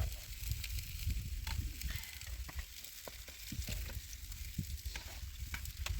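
Sizzling and crackling: a steady hiss with many small pops and crackles scattered through it.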